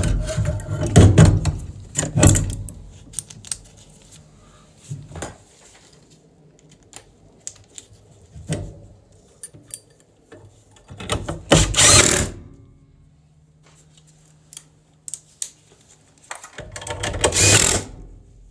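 Hand-working of furnace parts and tools: a run of sharp clicks, taps and knocks of metal being handled and fitted, with two louder scraping, rustling bursts, one past the middle and one near the end.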